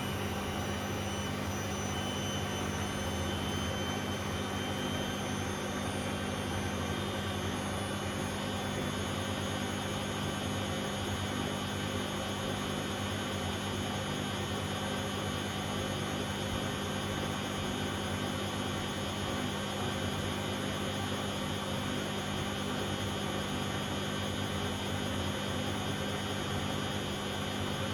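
Bosch Classixx 6 front-loading washing machine in its 600 rpm intermediate spin: the motor and drum run at a steady speed with a constant whir. A faint high whine steps up slightly about eight seconds in.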